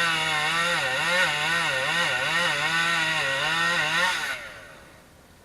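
ATV engine running hard at high revs, its pitch rising and falling about twice a second with the throttle, then dropping away about four seconds in.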